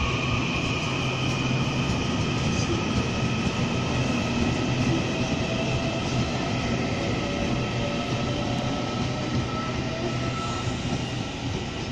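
Taiwan Railways electric commuter train moving slowly along the adjacent track: steady rumbling running noise with a high electric whine, fading slightly near the end.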